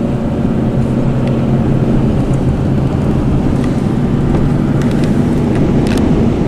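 A car running: a steady low engine hum over constant rumbling noise.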